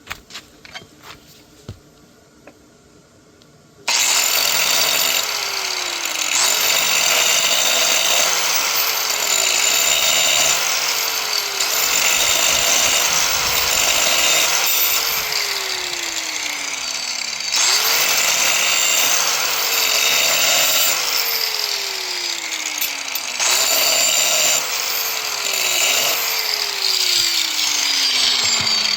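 A handheld electric power tool starts about four seconds in and runs in repeated bursts: the motor speeds up each time the trigger is pulled, runs with a harsh high hiss, and winds slowly down in pitch between bursts. A few light clicks come before it starts.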